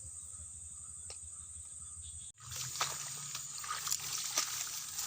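Riverside ambience: steady insect chirring with water sloshing and trickling. An abrupt cut about two seconds in, after which the water is louder with many small clicks and splashes.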